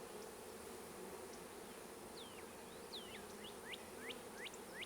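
Faint, steady hum of honeybees crowding an open hive frame. From about two seconds in, a string of short, high, sweeping chirps sounds over the hum.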